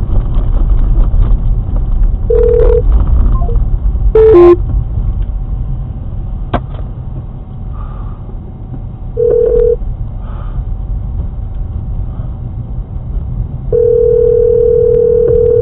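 Car interior rumbling with road noise while a car horn sounds in short honks, then one long blast of about two seconds near the end. About four seconds in, a sharp loud bang comes with a honk that drops in pitch.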